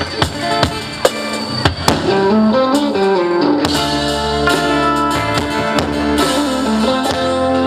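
A live band playing an instrumental passage with guitars and a drum kit keeping a steady beat, and a melody line that slides between notes.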